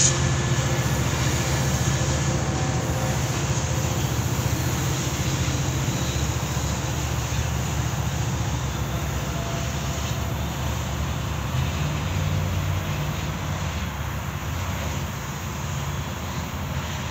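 Steady low hum and rumble of an AMT commuter train running. The hum shifts slightly in pitch about two-thirds of the way through, and the sound eases a little toward the end.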